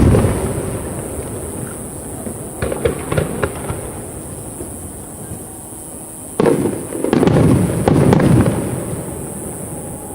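Fireworks display: aerial shells bursting with booms and a rolling echo, then a patter of crackling in the third and fourth seconds, and another loud volley of bursts starting about six and a half seconds in and fading away toward the end.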